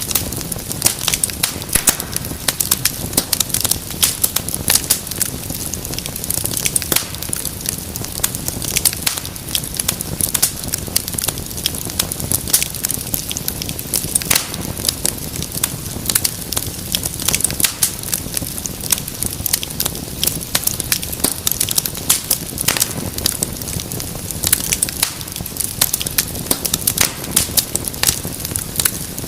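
Wood fire crackling steadily, with many sharp irregular pops and snaps over a soft low rumble of the flames.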